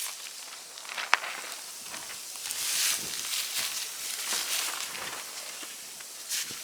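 Footsteps crunching and rustling through dry leaves and twigs on a forest floor, with one sharp crack about a second in.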